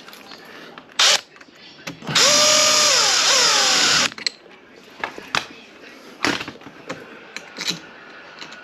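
Cordless drill driving a screw into door hardware: a short blip about a second in, then a steady run of about two seconds whose pitch drops as the screw seats, then stops suddenly. Scattered clicks and knocks of hardware being handled follow.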